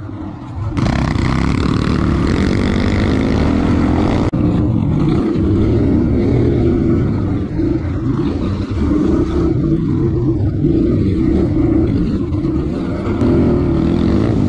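Dirt bike engine running under throttle while riding, its pitch rising and falling with the revs and growing louder about a second in.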